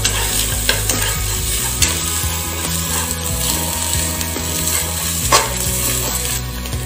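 Onions, green chillies, ginger-garlic paste and coriander leaves sizzling in ghee and oil in an aluminium pressure cooker. A perforated metal spoon stirs them and clicks against the pot now and then, most sharply about five seconds in.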